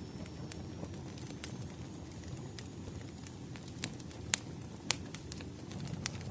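Wood fire crackling: a steady low rumble of burning logs with scattered sharp pops, the two loudest a little past the middle.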